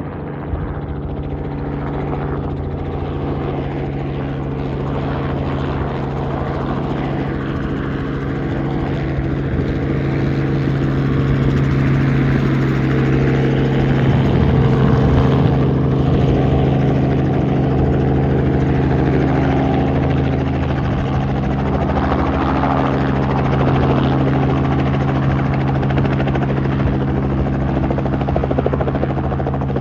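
Robinson R44 helicopter approaching and landing: a steady, pulsing rotor and engine drone that grows gradually louder to a peak about halfway through, then holds a little lower.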